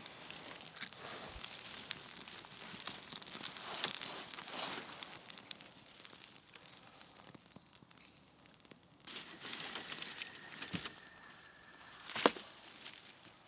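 Rustling and crackling handling noises with scattered small clicks, and one sharper knock near the end.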